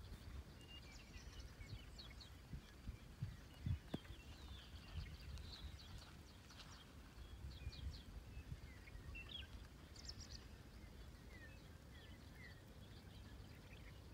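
Faint outdoor ambience of birds chirping in many short, high calls, over a low wind rumble, with a couple of soft low thumps about three to four seconds in.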